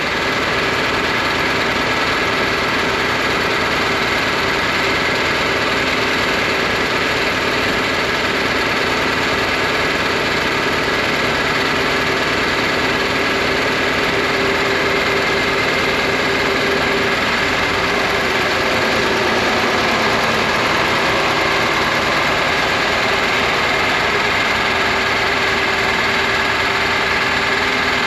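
Tractor engines running steadily at idle, a John Deere 4010 and a second tractor warming up, getting slightly louder about twenty seconds in.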